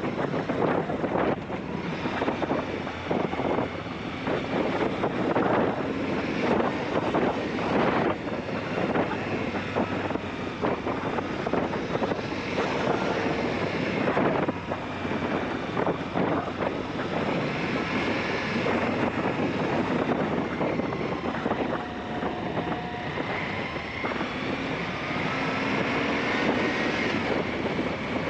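Aprilia Shiver 750 V-twin motorcycle engine running on the move, its note drifting up and down with the throttle, half buried under heavy wind buffeting on the helmet or bike-mounted camera mic.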